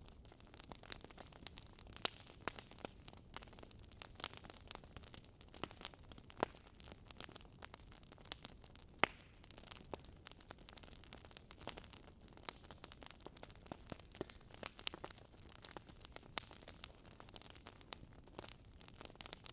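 Wood fire crackling in a fireplace: irregular sharp pops and snaps, a few louder ones such as about nine seconds in, over a soft hiss.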